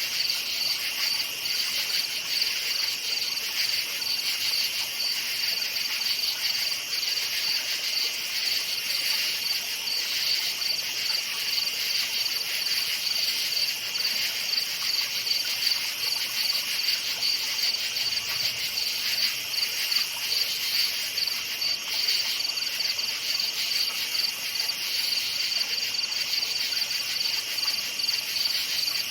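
Crickets chirping in a steady, continuous chorus, their high rapid pulsing unbroken throughout.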